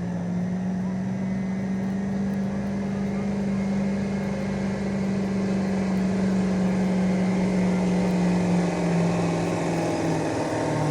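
Pulling truck's engine held at high, steady revs while dragging the weight sled, its pitch sagging about ten seconds in as the truck bogs down under the load.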